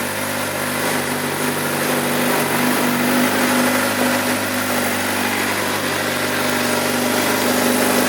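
2012 Suzuki GSX-R600's inline-four engine idling steadily.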